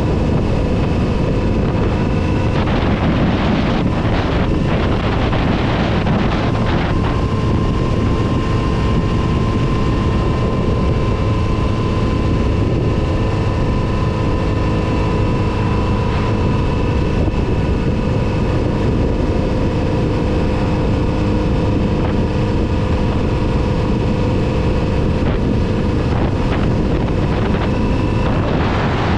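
Kawasaki Z900RS motorcycle's inline-four engine running under way at mostly steady revs, its note shifting slightly a few times, with wind buffeting the microphone, heaviest a few seconds in.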